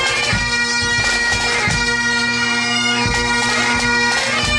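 Highland bagpipes playing a tune over steady drones, with occasional low thuds beneath.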